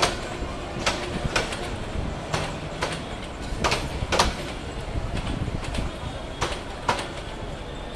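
Train wheels clattering over rail joints: sharp knocks in pairs about half a second apart, a pair every second or two, over steady running noise.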